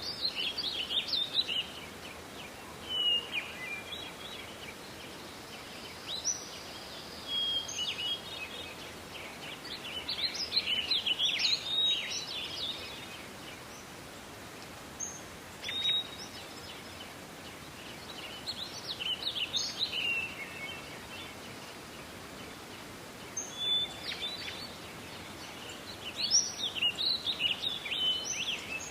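Small songbirds singing short, chirping phrases every few seconds over a steady background hiss of forest ambience.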